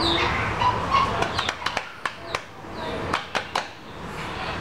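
A bird chirping briefly at the start, then a run of sharp clicks and knocks, in two clusters about a second apart.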